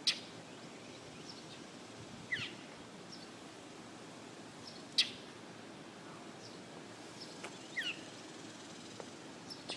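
A kite calling: short falling whistled calls, one about two seconds in and a two-part one near the end. Two sharp clicks, at the start and about five seconds in, are the loudest sounds.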